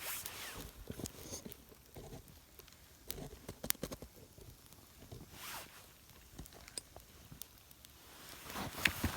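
Newspaper and thin twigs burning in a small campfire laid on damp wood: faint scattered crackles with a few short rustling swishes. The fire is only just catching.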